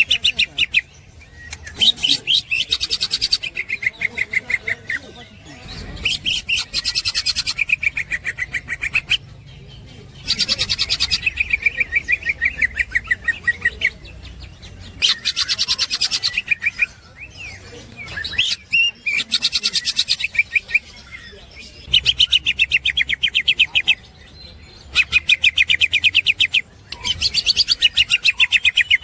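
Green leafbird (cucak ijo) singing its full chattering 'ngekek' song: about ten quick phrases, each a rapid run of high repeated notes lasting one to three seconds, with short pauses between.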